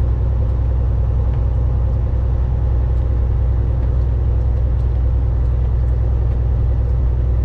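Steady low drone of a Volvo VNL 860 semi truck on the move, heard inside the cab: engine and road noise holding an even level.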